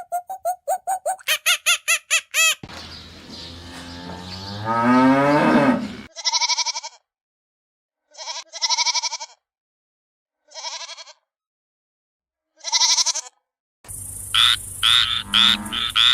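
A run of farm animal calls, one clip after another. Rapid repeated bird calls for about two and a half seconds give way to a long, low cow moo that rises in pitch, then four separate sheep or goat bleats with gaps of silence between them. Near the end a frog starts croaking in a quick rhythm.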